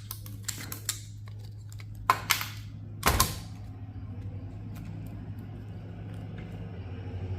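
Hand work on a server's metal parts: a run of small sharp clicks, then two short scrapes about two and three seconds in, as a part that is hard to free is worked loose. A steady low hum runs underneath.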